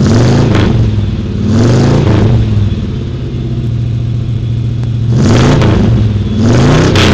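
A car engine idling and being revved four times, each rev a quick rise and fall in pitch, with a steady idle between the second and third.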